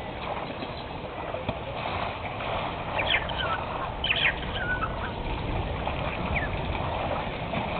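Several short bird chirps, grouped between about three and six and a half seconds in, over a steady outdoor hiss.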